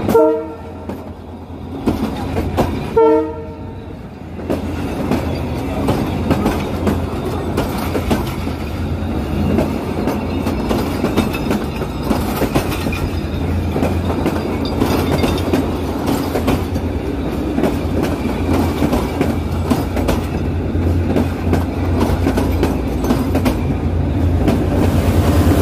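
Passenger train passing close by: two short blasts of the diesel locomotive's horn in the first few seconds. Then the coaches' wheels clatter steadily over the rail joints as they roll past. A low engine drone grows louder near the end as the locomotive draws near.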